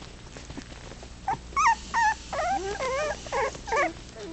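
Four-week-old puppies whimpering and squealing, a run of short, high, wavering cries, several overlapping, starting about a second in.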